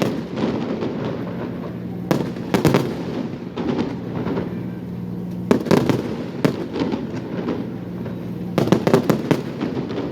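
Fireworks display: aerial shells bursting in quick clusters of bangs about two, five and a half, and nine seconds in, with crackling in between, over a steady low hum.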